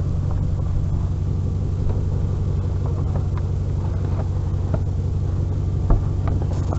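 A vehicle engine idling with a steady low hum, overlaid by a few light knocks and clatters of junk being moved. The loudest knock comes near the end.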